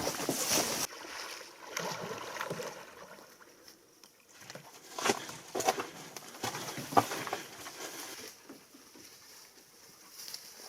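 A canoe being paddled: uneven swishes of water, with a couple of sharp knocks about five and seven seconds in.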